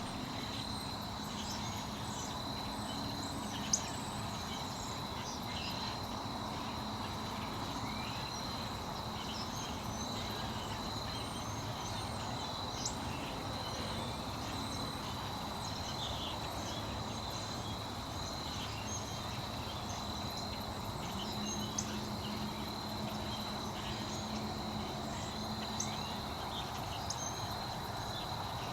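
An outdoor chorus of insects singing in one continuous high trill, with scattered short chirps above it. A faint low hum rises in about two-thirds of the way through, then fades.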